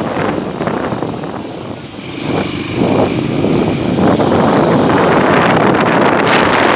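Motorcycle riding along, its engine running under heavy wind noise on the microphone, which grows louder about two to three seconds in and then holds steady.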